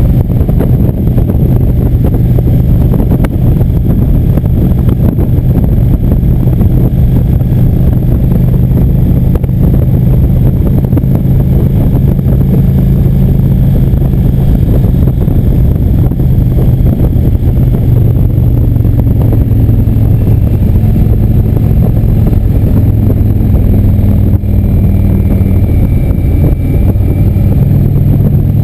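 Indian motorcycle engine running at a steady cruise under heavy wind rush on the microphone. The engine note drops a little past halfway and picks up again near the end.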